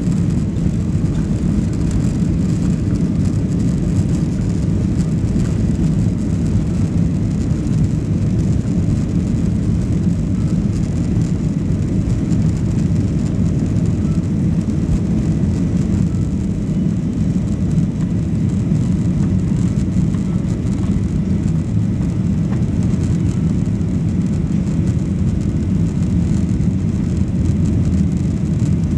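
Boeing 737-800 jet airliner during its takeoff, a steady, loud, low rumble of engines and airflow that neither rises nor falls.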